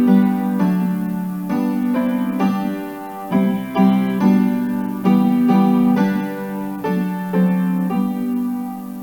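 Piano playing slow chords, a new chord struck about every second and left ringing until it fades into the next.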